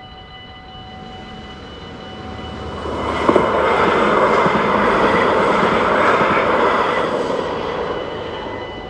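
A train passing over a Dutch level crossing: its rumble builds from about two and a half seconds in, is loudest for a few seconds in the middle and fades away near the end. Under it the crossing's bells keep ringing in a steady tone.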